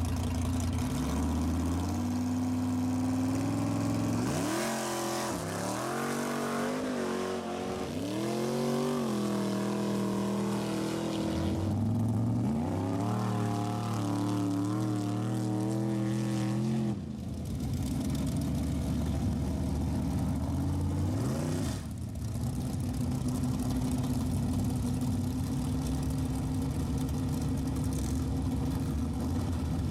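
Rat rod's engine idling, then revved hard again and again in rising and falling blips for over ten seconds before dropping back sharply to idle; one more short rev follows, then it settles into a steady idle.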